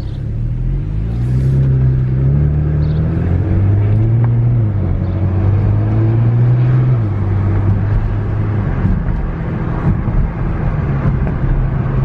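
BMW N54 twin-turbo straight-six accelerating through the gears, its pitch climbing and then stepping down at smooth dual-clutch upshifts. About seven seconds in it eases off and the engine note drops.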